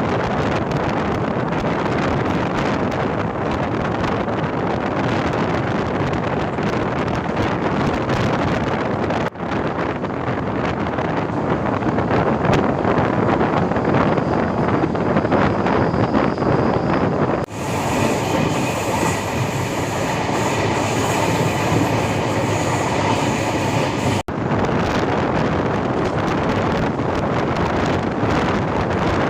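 Passenger train running at speed, a steady rush of rolling and wind noise from the moving coaches, in several clips joined by sudden cuts. In the middle clip, steady high-pitched tones ring over the rush, like wheels squealing on the rails.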